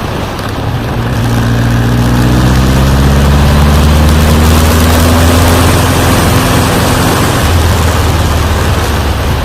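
Suzuki GSX1400's inline-four engine pulling under load with wind noise, its pitch rising slowly for several seconds, then falling away about seven seconds in.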